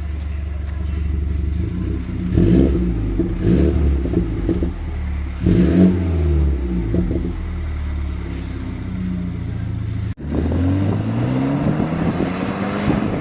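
BMW X3 2.0-litre engine through an aftermarket bassy exhaust, idling steadily with a few short revs. After a sudden cut about ten seconds in, it accelerates with its pitch rising.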